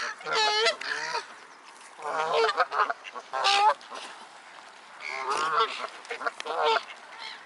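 Geese honking loudly in about five bursts of repeated, wavering calls with short pauses between them.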